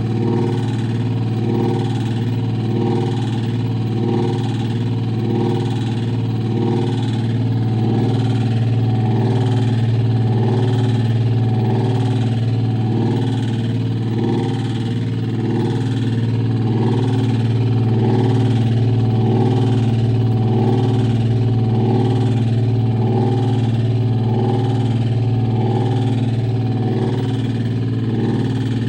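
LG top-load washer's drum and motor running with a steady low hum and a rhythmic grinding pulse. This is the sound of a failed hall sensor, which in this case ended in an LE error code.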